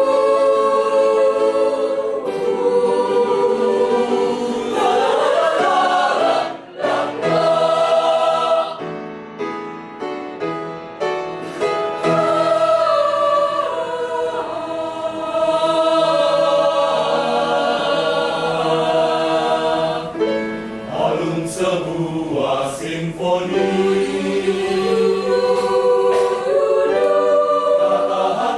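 Choir singing in harmony, holding chords. It drops quieter for a few seconds about a third of the way in, then swells back to full voice.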